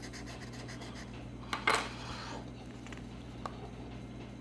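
Scratch-off lottery ticket being scratched: a few short scratching strokes, the loudest about one and a half seconds in, over a steady low hum.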